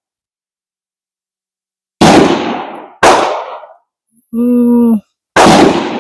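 Three gunshots on a shooting range, the first two about a second apart and the third a couple of seconds later, each with an echo trailing off. Between the second and third shot there is a short steady humming tone.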